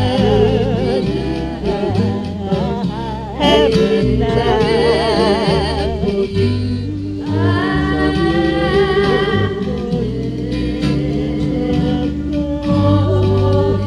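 Home four-track recording of a song: long held sung notes with vibrato over a stepping bass line, with no clear words.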